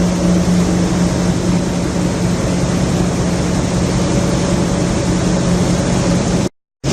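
A loud, steady mechanical drone with a constant low hum, cut off abruptly near the end.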